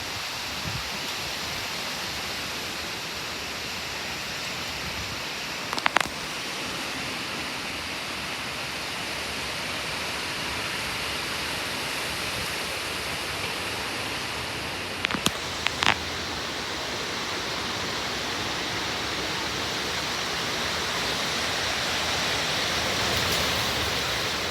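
Strong wind from a thunderstorm gust front rushing steadily and slowly building toward the end, with a few sharp clicks about six and fifteen seconds in.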